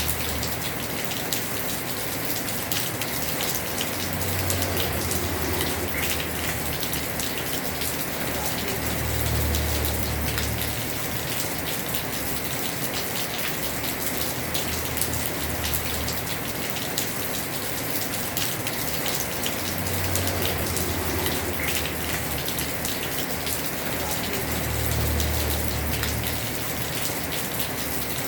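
Heavy rain falling on a house roof: a dense, steady hiss of drops with many small sharp ticks, and a low rumble that swells up four times.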